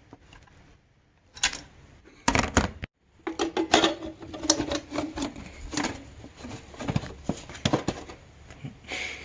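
Quick irregular clicks and light metallic knocks from hand tools being worked on a car during an alternator replacement, in short clips broken by sudden cuts.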